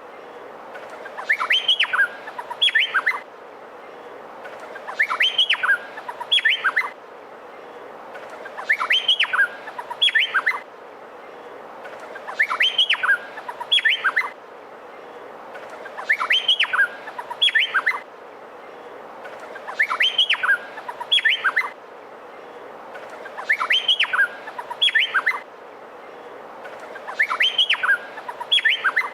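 Male Meliphaga honeyeater singing: a short phrase of sharp, quickly rising and falling whistled notes, repeated about every four seconds, eight times in all, over a steady hiss.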